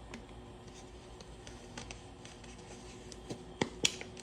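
Faint steady hum from an electric kettle heating water off a portable power station, with a few light taps and clicks near the end.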